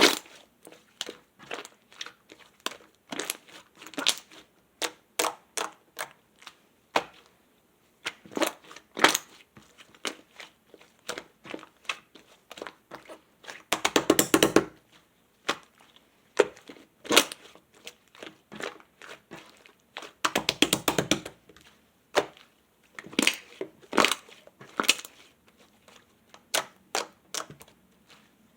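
Mixed slime being pressed and squeezed by hand, giving an irregular stream of small sticky pops and clicks, with two denser runs of rapid crackling about halfway and again about three-quarters through.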